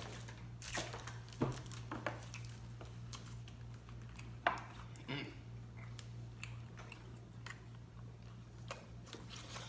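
Close-up eating sounds: a mouthful of canned salmon and brown rice being chewed and swallowed. A few short sharp clicks are scattered through it, the loudest about four and a half seconds in, over a steady low hum.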